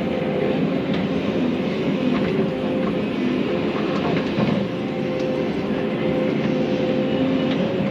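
Volvo excavator's diesel engine running under working load, its pitch shifting a little as the hydraulics work, with occasional sharp knocks.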